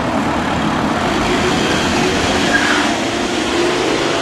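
Fire engine running as it moves off: a steady engine rumble under road and traffic noise.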